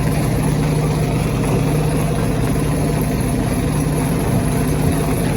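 Stone crusher machinery running with a steady, even drone and no distinct rock impacts.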